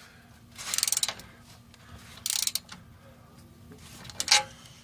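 Hand tools working on a rusty exhaust pipe under a car: three short bursts of metallic clicking and scraping, spaced a second or two apart.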